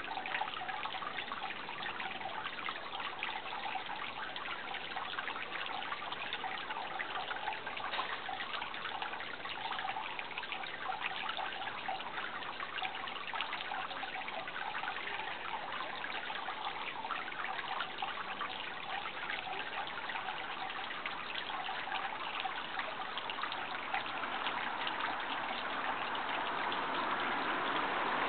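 Steady trickle of running water, growing a little louder over the last few seconds.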